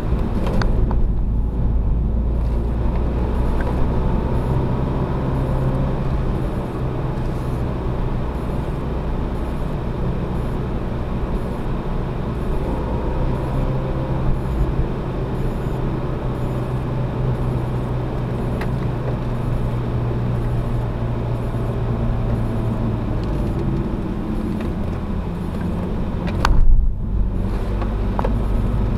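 Renault Mégane RS250's turbocharged four-cylinder engine heard from inside the cabin while driven hard on a circuit, its note rising and falling with throttle and gear changes. A brief louder rumble near the end.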